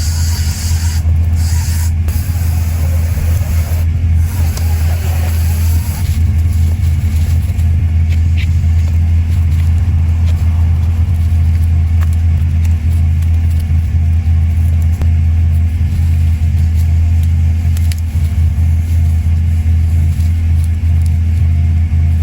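A machine engine running steadily at a constant speed, a deep, even drone with no revving.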